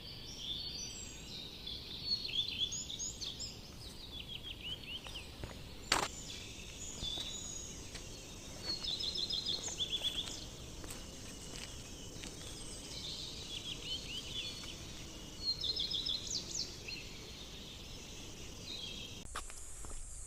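Birds calling in short bursts of quick, high chirps every few seconds over a faint outdoor hush, with a single sharp click about six seconds in. Near the end the background changes and a steady high buzz sets in.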